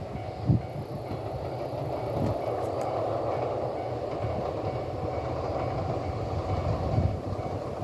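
Freight train hauled by an EF64 electric locomotive rolling past with a steady rumble, with a few low thumps of wheels over rail joints.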